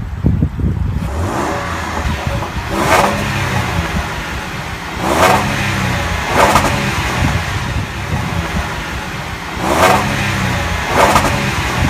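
2015 Land Rover LR4's 3.0-litre supercharged V6 idling and being revved in about five short blips, each rising in pitch and falling back to idle.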